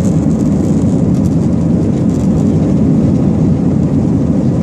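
Airbus A320's jet engines running at takeoff power, a steady, loud, deep rumble heard from on board the aircraft during the takeoff.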